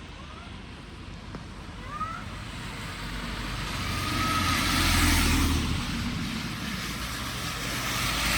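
A car passing on a wet road: tyre hiss and engine build to a peak about halfway through, then fade, and another vehicle approaches near the end.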